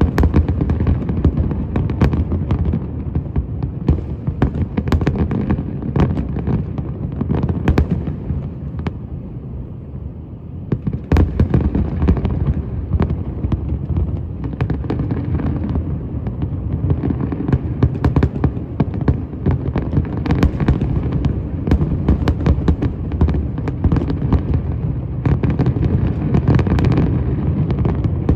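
Fireworks display going off in a dense, continuous barrage of booming shell bursts and crackle. It eases for a couple of seconds near the middle, then a loud bang comes at about eleven seconds and heavy firing resumes.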